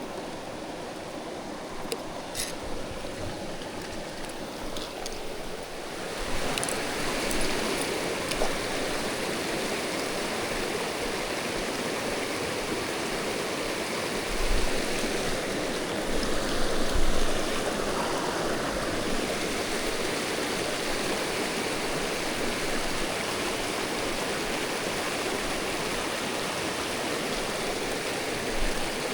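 Mountain stream running over rocks: a steady noise of flowing water that gets louder about six seconds in, with a few low bumps around the middle.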